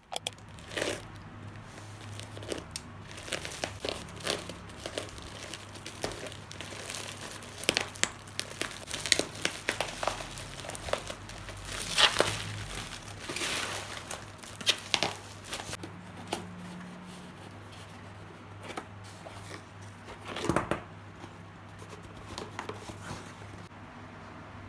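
Plastic or paper packaging crinkling and tearing as a parcel is handled and opened, in irregular rustles and crackles, busiest around the middle.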